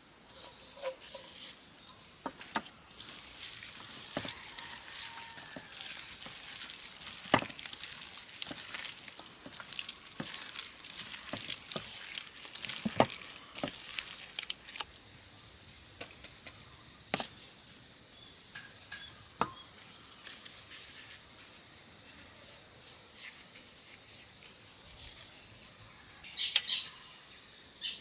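Steady high chirring of insects, with scattered sharp clicks and knocks over it.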